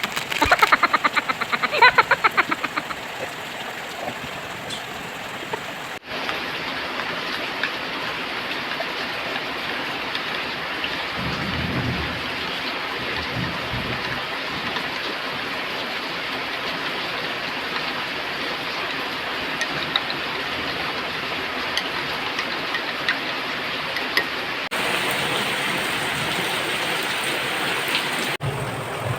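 Heavy rain pouring steadily, with a low rumble of thunder about twelve seconds in. A quick run of sharp taps sounds in the first few seconds, and the rain's sound changes abruptly twice, near 6 s and again near the end.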